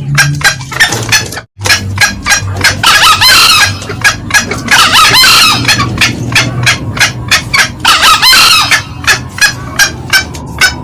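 Green junglefowl calls: a rapid, continuous run of short cackling notes, with three louder, longer crows from the male a couple of seconds apart. The sound cuts out briefly near the start, and a low hum runs underneath.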